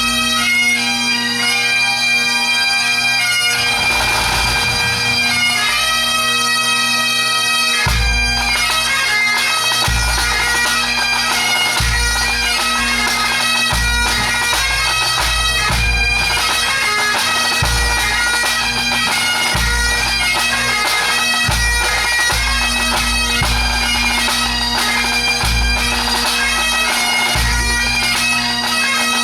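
Scottish pipe band playing a medley: Great Highland bagpipes carry a fast melody over their steady drone. About eight seconds in, the bass drum comes in and beats steadily under the pipes.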